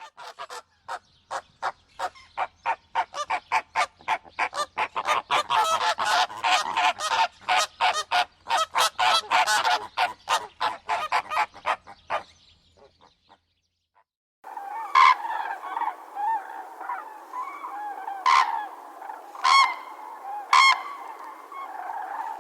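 Bird calls: a fast run of short, loud calls, about three a second, for some twelve seconds. After a brief silence comes a steady chatter of many birds, with four loud sharp calls standing out over it.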